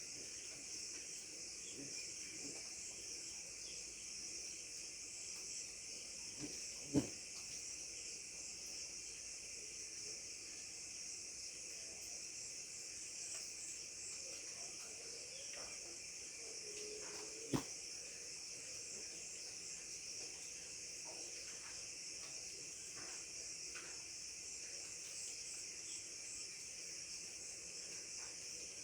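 A steady, high-pitched chorus of crickets chirping. Two short sharp clicks stand out, about seven seconds in and again near the middle.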